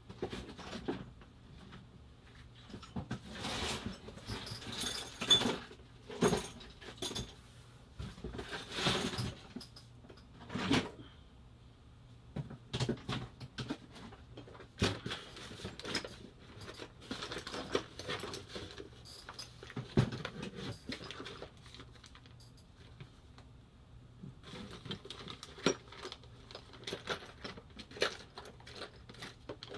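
Irregular clinking and clattering of small metal and plastic parts being handled and rummaged through, with a faint low hum underneath.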